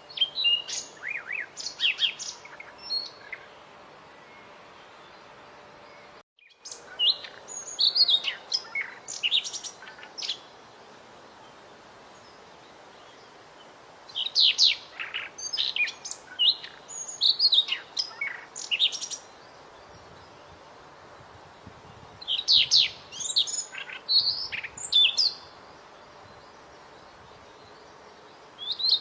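A small songbird singing in bursts of rapid, high chirps and trills, each burst lasting a few seconds, separated by pauses of several seconds.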